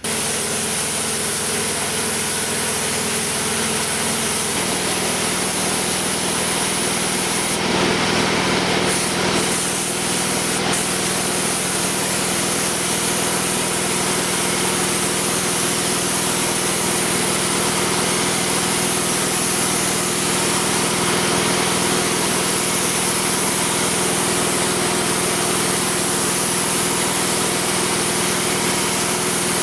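Spray-painting equipment running steadily: a motor hum under a continuous hiss, with a few brief bursts of sharper hiss about eight to eleven seconds in.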